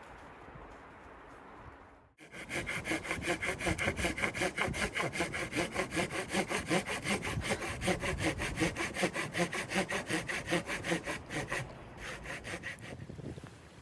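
Hand saw cutting through wood with quick, even back-and-forth strokes. It starts abruptly about two seconds in and fades near the end.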